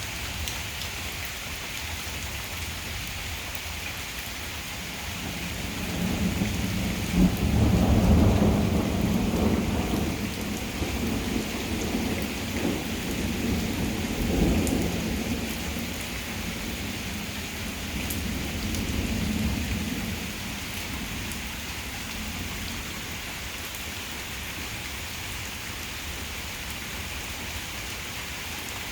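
Steady heavy rain falling, with a long roll of thunder. The thunder swells about five seconds in, is loudest a few seconds later, rumbles on in two more waves and dies away past the middle.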